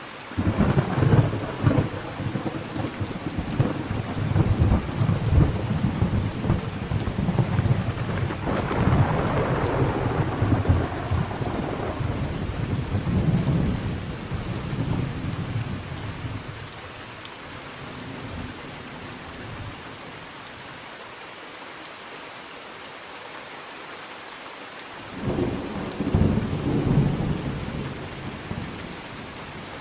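Thunderstorm: steady heavy rain with thunder. A long rolling rumble starts right away, swells again at about nine seconds and dies away by about sixteen seconds. A second peal breaks in at about twenty-five seconds.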